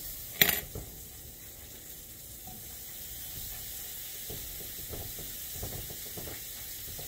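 Squirrel pieces frying in butter in a cast iron skillet, a steady sizzling hiss. A sharp knock comes about half a second in, with a few soft bumps later.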